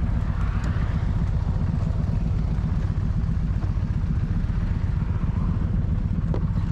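V-twin bagger motorcycle engine idling steadily.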